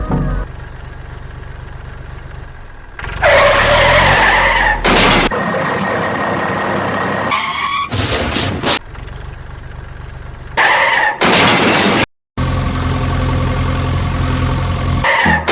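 Dubbed-in vehicle sound effects: a steady engine-like hum, then loud skidding squeals that wobble in pitch, in several stretches that start and stop abruptly, with a brief total dropout about twelve seconds in.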